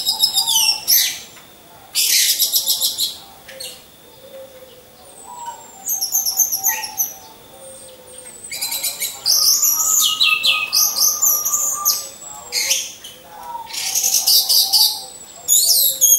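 Orange-headed thrushes singing: about five bursts of rapid, high chirping and warbled phrases, with quieter gaps between them.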